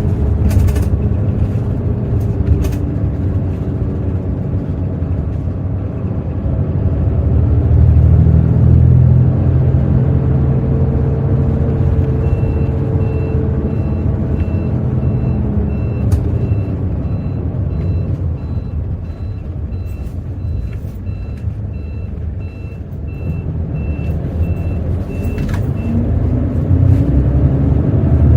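Heard from inside the bus, the Hino J08E-VD diesel engine running, pulling harder about a quarter of the way in, easing off, then revving up again near the end. From a little before halfway until near the end, a fast, evenly pulsed electronic beeping sounds over it.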